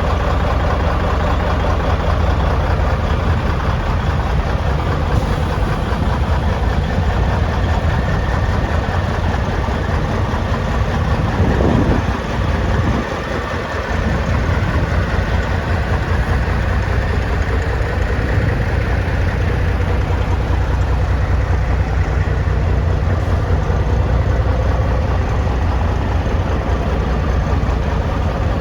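Cummins N14 diesel engine of a 1996 Freightliner truck idling steadily, with a brief change in the sound and a short dip in level a little before halfway.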